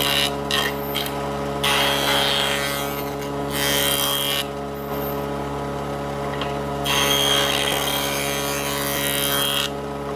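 An electric power tool's motor running steadily while working wood, with two stretches of louder noise from the work: one about two seconds in and another about seven seconds in.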